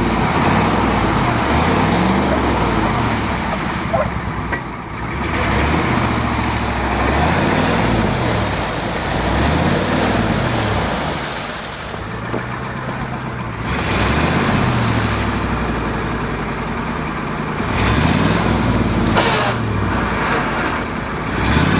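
Ford pickup truck engine revving up and down repeatedly as the truck is driven through ice and water, over a steady rushing noise.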